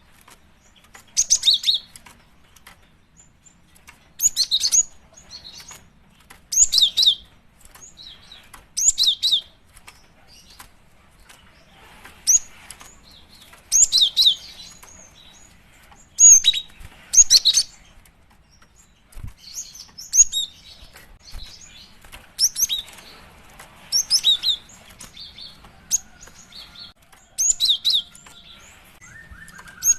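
Female cinereous tit (gelatik batu) calling in short bursts of high, sharp chirps, a burst every two seconds or so. This is the call a female gives to draw in a male.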